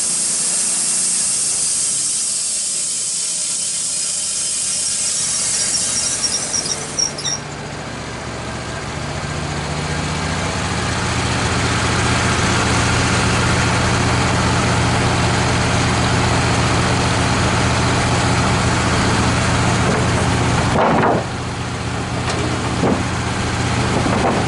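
Wood-Mizer LT15 bandsaw mill's blade cutting through a red oak log with a steady hiss, the cut ending abruptly about seven seconds in. After that the mill's engine runs on steadily, building over a few seconds, with a sudden drop in level near the end.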